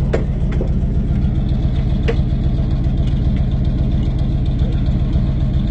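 Tow truck engine idling steadily, its exhaust loud from a muffler in need of repair.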